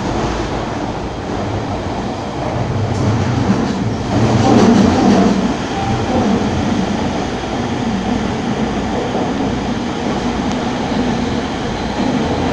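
Electric commuter train running along the track, heard from inside the carriage: a steady rumble of wheels on rails that swells louder for about a second and a half around four seconds in.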